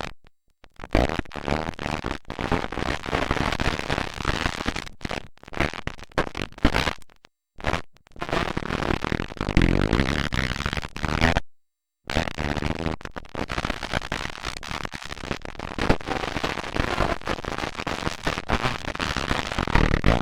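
Motocross dirt bike engines running loud, with pitch rising and falling as they rev. The sound cuts out to total silence about four times for under a second each.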